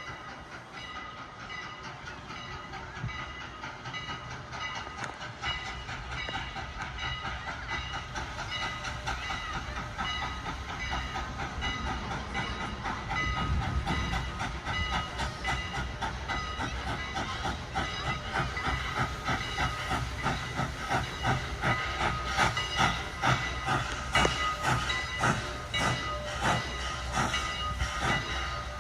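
Steam locomotive working, its exhaust beats getting steadily louder as it approaches, over a steady hiss of steam.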